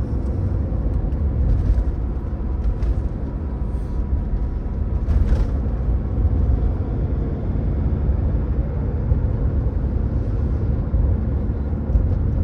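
Steady low rumble of a vehicle on the move: road and engine noise, with a few faint brief higher sounds.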